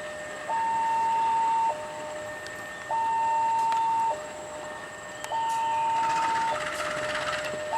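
Railway level-crossing alarm sounding its two-tone warning, alternating a higher and a lower tone, each held a little over a second. A rush of noise joins it near the end.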